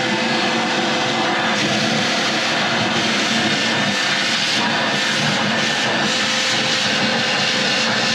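Shop vacuum running steadily, a constant motor whine over rushing air, as it sucks loose paint chips out of a sailboat's cabin and bilge.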